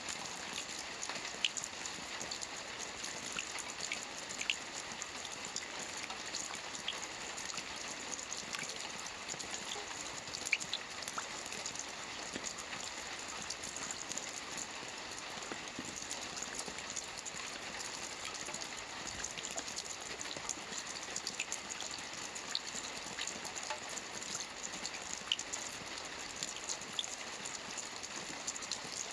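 Steady rain falling on a lake's surface, an even hiss with scattered individual drop ticks.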